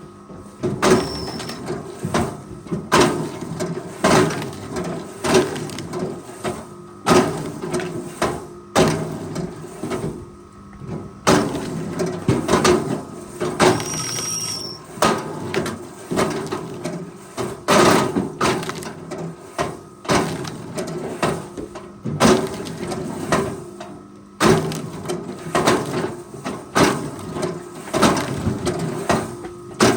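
Forestry machine running with a steady hum, with repeated heavy knocks and clunks of wood and metal about every one to two seconds.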